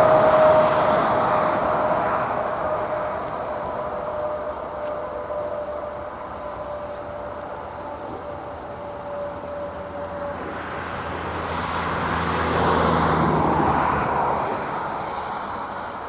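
A train that has just crossed fading into the distance, its running noise and a thin, slowly falling whine dying away over the first ten seconds. About twelve seconds in, a motor vehicle's engine swells and fades again.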